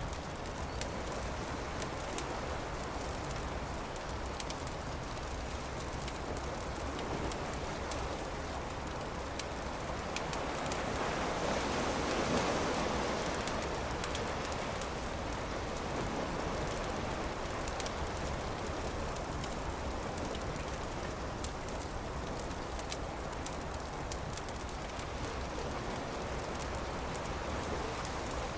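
Campfire crackling with frequent small pops over a steady rush of surf; the rush swells louder about halfway through and falls back.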